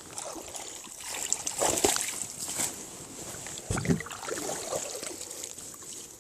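Water splashing and sloshing around a small boat, with a dull knock about four seconds in.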